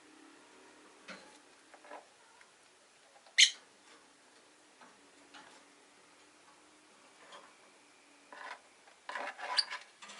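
Rosy-faced lovebirds in a cage making scattered small clicks and rustles. One sharp, short chirp comes about a third of the way in, and a quick burst of chirps and clicks follows near the end.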